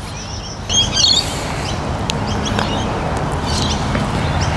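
Birds chirping in short high calls, over a steady rush of wind noise that picks up about a second in.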